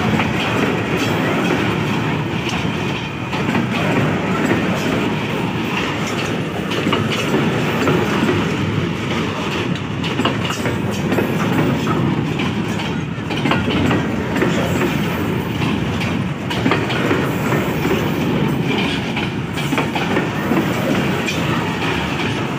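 Freight train of coal hopper wagons rolling past close by: steel wheels clacking over the rail joints over a steady rumble.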